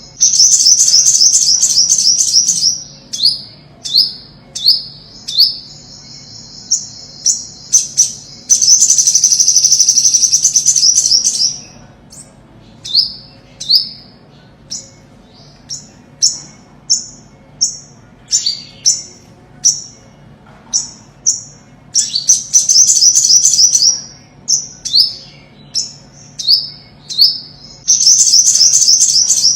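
Olive-backed sunbird singing: a string of short, high, down-slurred notes broken by several fast trills of two to three seconds each, at the start, in the middle and near the end.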